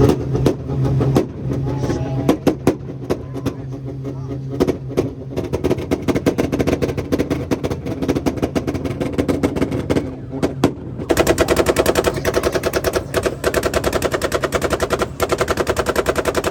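Car engine held on a two-step launch limiter, its exhaust banging and popping in rapid, irregular cracks. About eleven seconds in it settles into a fast, even stutter against the limiter, then cuts off sharply at the end.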